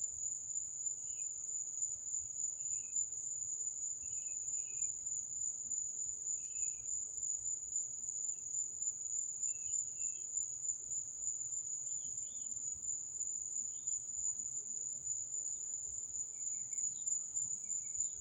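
Night insects trilling in one continuous, steady high-pitched tone, with faint short chirps scattered through and a weak low rumble underneath.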